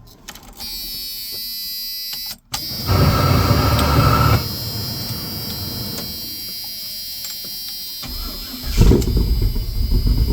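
An engine being cold-started: a steady high-pitched whine, a short loud burst of cranking, then about nine seconds in the engine fires and keeps running.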